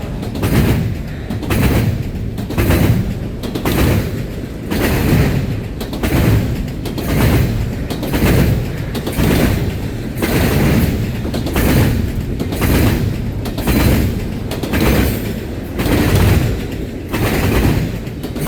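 Freight train cars rolling past, their wheels clacking over rail joints in a steady rhythm of roughly one heavy clack a second over a low rumble.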